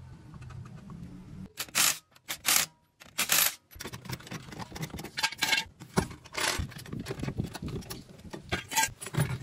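Metal parts and tools clinking and scraping in short, irregular bursts while a car's rear shock absorber assembly is handled.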